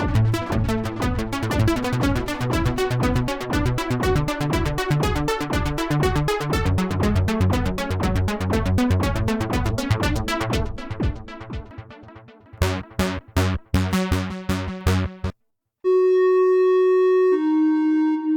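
Cherry Audio P10 software polysynth playing a fast sequenced note pattern over a bass line, which thins out and stops about fifteen seconds in. After a brief silence, another preset starts with a few clean held notes stepping from one pitch to the next.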